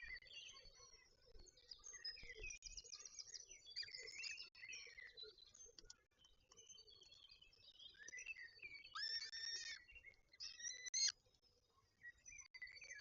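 Faint birdsong: a mix of chirps, trills and gliding calls from several birds. Two louder calls of about a second each come near the end.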